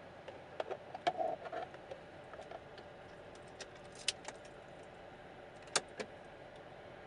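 A scatter of light clicks and clinks, like small metal parts or keys being handled, over a low background hum; the sharpest ones come about a second in, near the middle, and twice close together near the end.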